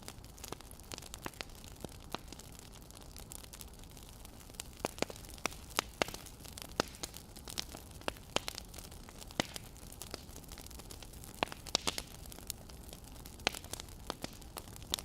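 Wood fire crackling: irregular snaps and pops over a steady low hiss, coming thickest in the middle stretch.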